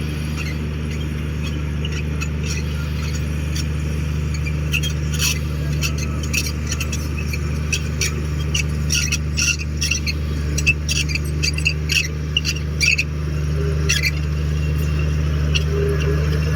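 Komatsu D58 bulldozer's diesel engine running steadily, with a run of short high squeaks and clicks starting about four to five seconds in.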